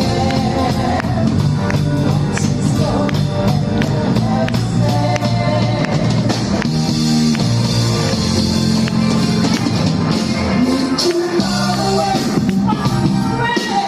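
A rock band playing, with a singer and a steady beat.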